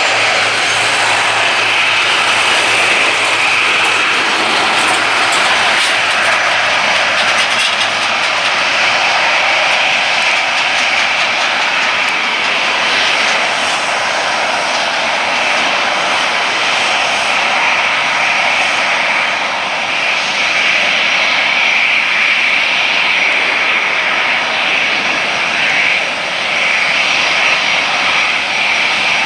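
Boeing 737-800's CFM56-7B turbofan engines running, a loud steady jet noise with a high whine band, holding nearly constant throughout.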